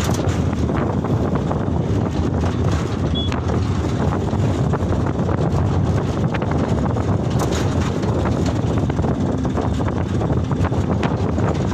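A moving Canter light truck: steady engine and road noise heavy in the low end, with wind buffeting the microphone and scattered short knocks.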